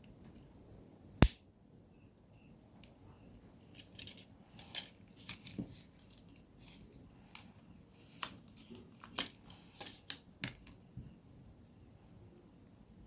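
A single sharp click about a second in, then a scattered run of small clicks and taps from about four to eleven seconds in: tools and small plastic and metal parts being handled while a Samsung Galaxy A03s smartphone is taken apart.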